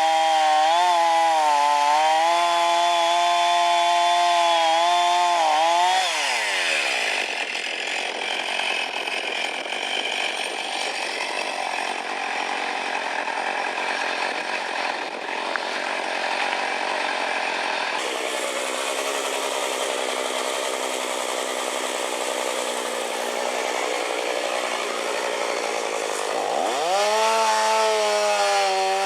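Chainsaw engine revving high, then dropping in pitch as the chain bites into wood and cutting for about twenty seconds, then revving back up near the end as the chain comes free.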